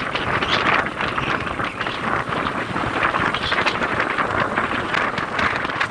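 A moving vehicle's engine and road noise, with wind rushing and buffeting over the microphone.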